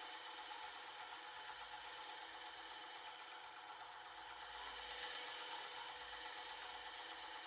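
A power tool running steadily, with a high-pitched hissing whine that holds level throughout.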